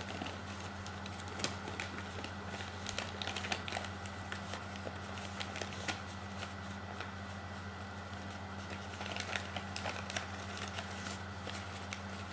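Paper being folded and creased by hand: scattered crinkles and ticks over a steady low hum.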